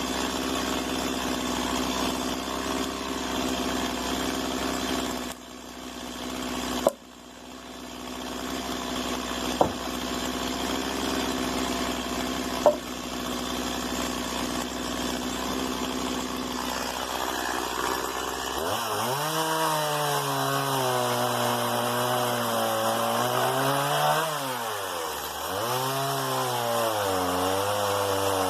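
Stihl MS 170 two-stroke chainsaw running steadily at low speed, with three sharp knocks in the first half. About two-thirds in, the engine revs up into a cut through wood, its pitch sagging and recovering as the chain loads up.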